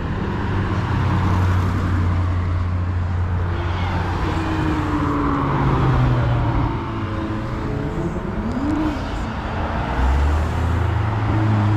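Car engines running as cars drive past, with an engine note rising briefly about eight seconds in and another engine coming in near the end.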